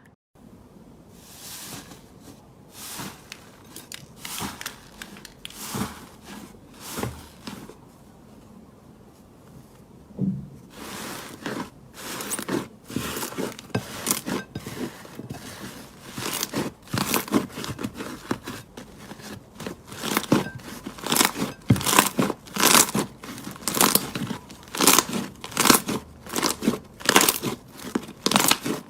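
Slime being squeezed and pressed by hand: a run of short clicks and pops, sparse at first, then from about eleven seconds in coming faster and louder, several a second.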